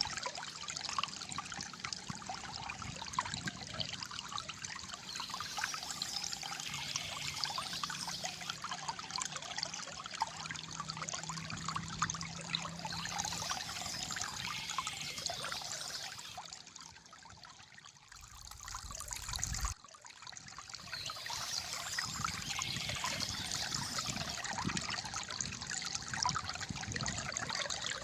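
Flowing water trickling and gurgling steadily. About two-thirds of the way through, the water fades down, a short low rumble comes in and cuts off suddenly, and then the water fades back up.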